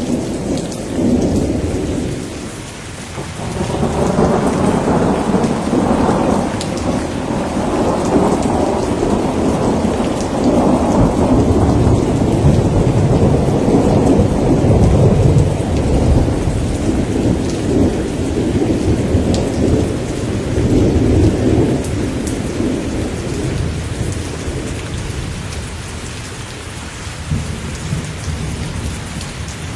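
Steady heavy rain with thunder: a short rumble at the start, then a long rolling rumble that builds a few seconds in, is loudest midway and slowly dies away.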